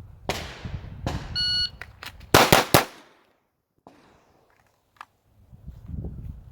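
A shot timer beeps once. About a second later a 9mm Glock 45 pistol fires three quick shots, the last two following each other at under a quarter-second intervals: a failure-to-stop drill of two to the body and one to the head.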